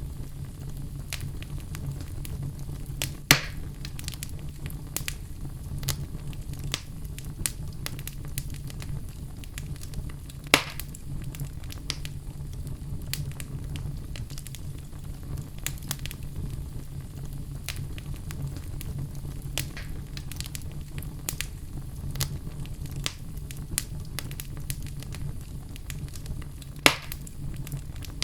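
Fire in a fireplace crackling, with a constant scatter of small snaps over a steady low rumble. Three louder pops stand out: about three seconds in, about ten seconds in, and near the end.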